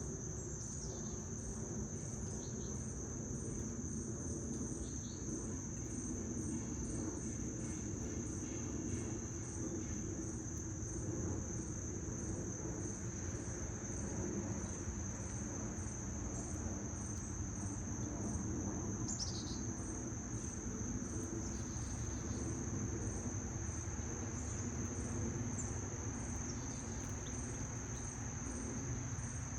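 Insects trilling on one steady high pitch without a break, with a fainter, faster pulsing note above it. A bird gives a few brief chirps, most clearly about two-thirds of the way through, over a steady low background noise.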